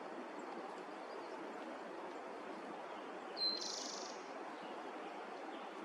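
A bird gives one short, sharp call about three and a half seconds in: a brief high note running straight into a buzzy burst. Under it is a steady faint outdoor hiss.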